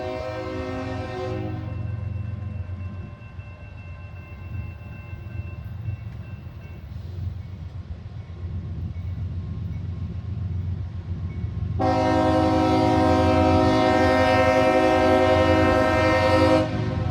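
Locomotive air horn sounding a chord of several notes: one blast ending about a second and a half in, then a long, louder blast of about five seconds near the end, over the train's steady low rumble.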